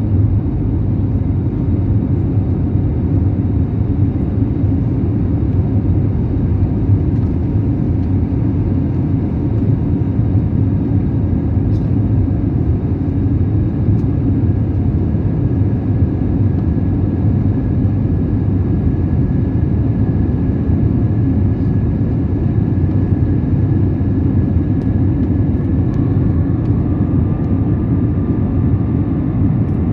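Steady low rumble of an Airbus airliner's jet engines and airflow heard from inside the passenger cabin. A faint steady whine joins in partway through.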